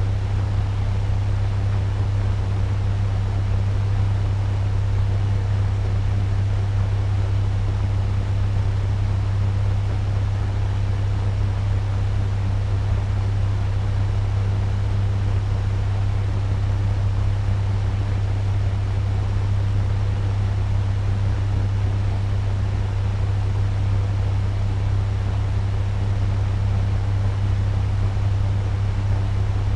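Turbo fan running steadily at medium speed: a constant low hum under an even rush of air.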